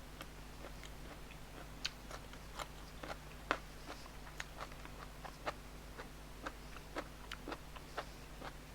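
A person chewing and eating up close: an irregular run of small wet clicks and crunches from the mouth while eating herb-steamed tilapia.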